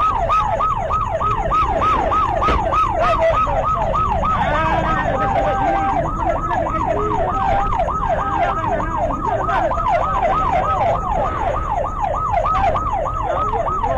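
Police siren on yelp, sweeping rapidly up and down about four times a second, with a low rumble underneath.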